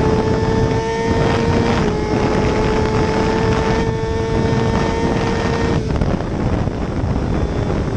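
Racing motorcycle engine held at high revs under heavy wind rush at speed, its steady tone creeping up and dropping a little twice as it shifts up, then fading out about six seconds in.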